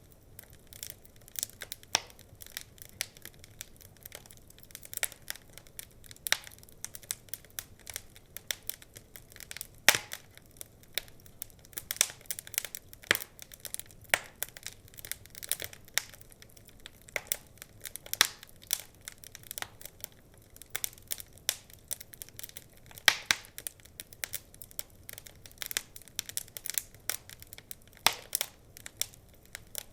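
Wood fire crackling, with irregular sharp snaps and pops several times a second; a few louder pops stand out, about ten seconds in, around thirteen, and near twenty-three and twenty-eight seconds.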